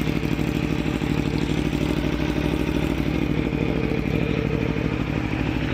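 2018 Aprilia Tuono V4 1100 Factory's V4 engine idling steadily, with an even pulsing beat and no revving.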